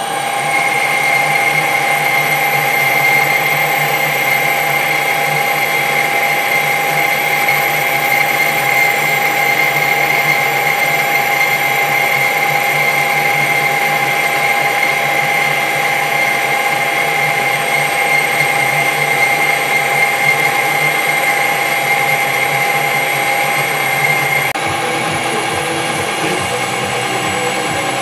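Metal lathe running while a boring bar takes a cut inside a drilled bore. The steady machine sound carries a high whine that drops out near the end, while the lathe keeps running.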